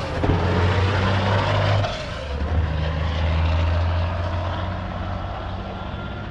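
Heavy diesel truck engine running close by, a steady low drone whose pitch drops about two seconds in as the engine slows.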